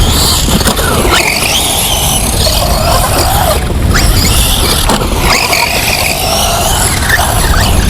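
Whine of a radio-controlled truck's sensored brushless electric motor and steel spur gear drivetrain on 4S, its pitch rising and falling repeatedly with the throttle, over a steady low rumble.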